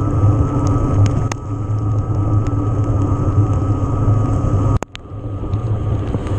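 Riding noise of an electric mountain bike picked up by a body- or bike-mounted camera: a steady low rumble of wind and tyres over the trail, with scattered clicks and rattles. The sound cuts out briefly near the end.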